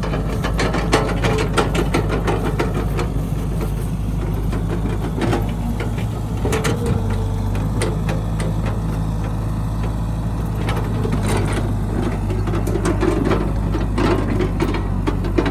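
Excavator's diesel engine running steadily under work, with frequent metallic clicks and clanks over it.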